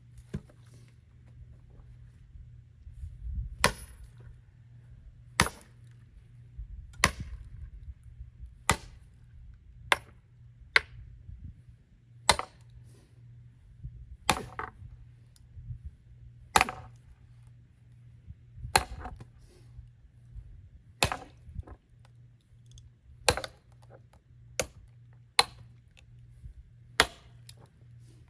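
Axe splitting firewood: about sixteen sharp chopping blows on the logs, one every second or two, some with a brief ringing tick.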